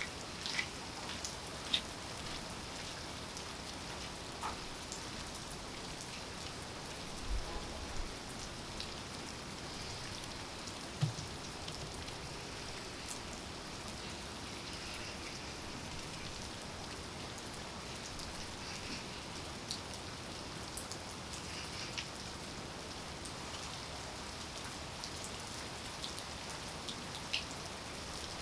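Steady rain falling, with single drops ticking sharply on nearby surfaces now and then and a couple of soft low thumps, about seven and eleven seconds in.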